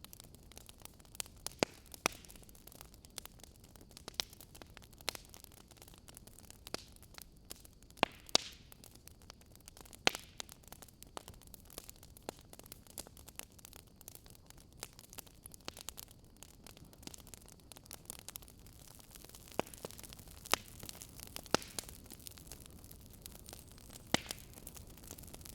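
Wood fire crackling in a fireplace: irregular sharp pops and snaps, some louder than others, over a soft steady hiss.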